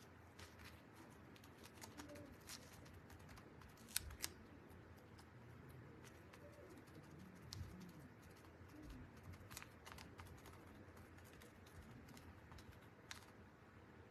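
Near silence with a few faint, sharp taps and clicks from handling small craft tools and paint supplies, two close together about four seconds in.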